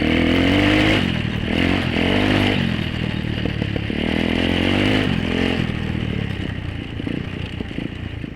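Apollo 125cc dirt bike's single-cylinder engine revving up and easing off in repeated rising pulls while riding. In the last few seconds it drops to lower, choppier running with rattly clatter.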